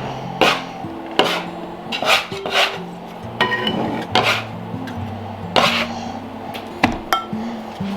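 Kitchen clatter of dishes and utensils: sharp clinks and knocks every second or so, with some rubbing and scraping, over soft background music with long held notes.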